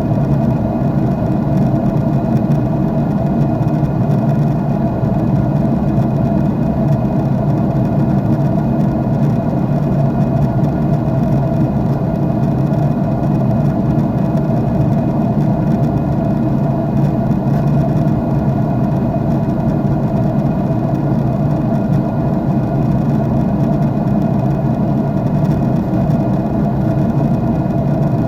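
Jet airliner cabin noise in flight, heard inside the cabin: a steady engine drone and airflow rumble with several constant low hum tones, unchanging throughout.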